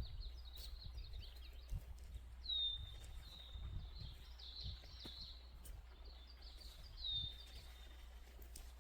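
Faint songbird singing in high, thin repeated phrases, with a drawn-out whistle that slides down and levels off, heard about two and a half seconds in and again near the end. A steady low rumble and a few soft clicks lie underneath.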